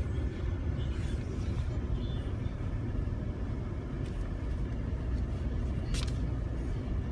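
Steady low rumble inside a moving car, engine and tyres on a snow-covered road, with a single sharp click about six seconds in.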